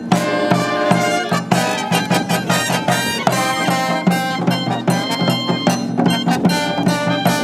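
Brass band playing a lively tune, trumpets and trombones over a steady beat.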